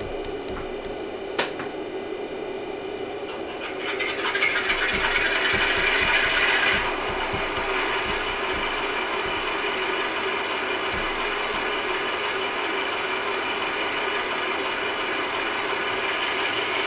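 Digital sound decoder in a model Class 47 diesel locomotive playing a normal engine start through the model's small speaker: a click about a second in, the engine sound building louder as it fires up about four seconds in, then settling into a steady idle about seven seconds in.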